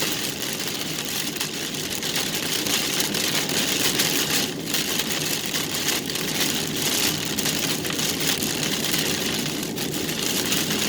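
Inside a moving car in a heavy rainstorm: steady road noise from the tyres on the wet road, with the engine running and rain hitting the car.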